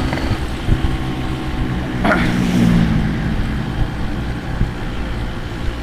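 Yamaha RX-King's two-stroke single-cylinder engine running while the motorcycle is ridden, its note changing about two seconds in.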